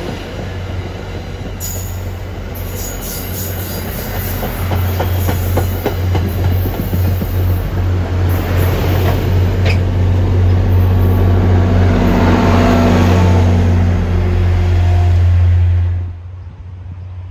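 MBTA commuter rail train passing close on a curve: coach wheels rumbling over the rails with some squealing, and a diesel locomotive's engine drone building steadily louder as the locomotive nears. The sound cuts off abruptly near the end.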